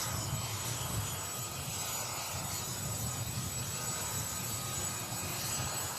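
CH-47 Chinook tandem-rotor helicopter running with its twin Lycoming T55 turboshaft engines: a steady turbine hiss with thin high whining tones over a fast, low rotor throb.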